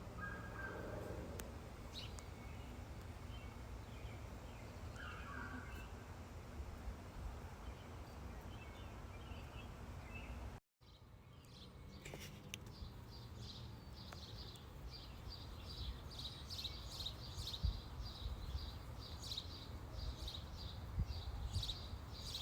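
Outdoor background noise with a steady low rumble. After a brief dropout about halfway through, birds start chirping: a long run of short, high chirps a few times a second.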